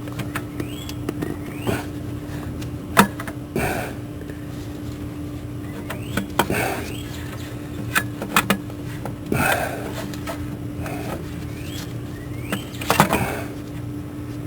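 Hand tools being handled on metal during car repair work: a series of irregular sharp clinks and knocks, loudest about three seconds in and near the end, with a few short squeaks, over a steady low hum.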